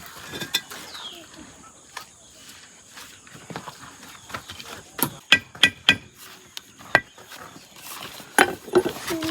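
Hard objects knocking and clinking together: a quick run of about five sharp clinks with a short ring about five seconds in, one more about a second later, and a few louder knocks near the end.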